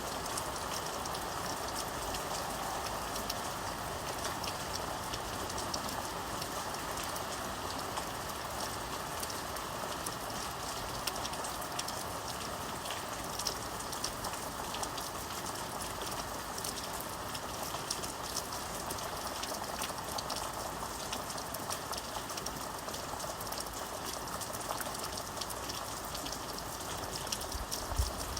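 Steady rain falling, with the patter of individual drops on a surface over an even hiss. A brief low thump near the end.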